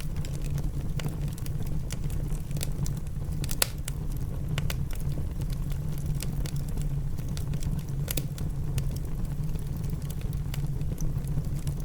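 Wood fire in a fireplace crackling, with scattered sharp pops, over a steady low rumble of rain.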